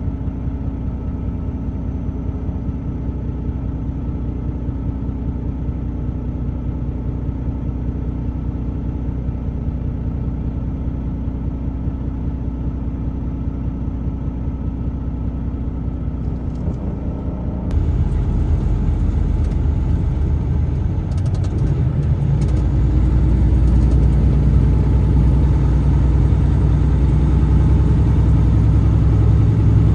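Truck engine and tyre noise while driving, steady, then growing louder with more low end about two-thirds of the way through and again a few seconds later.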